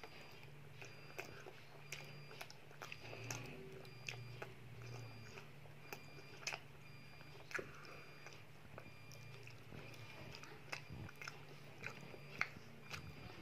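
A child chewing chicken satay close to the microphone, with irregular wet mouth clicks and smacks over a low steady hum.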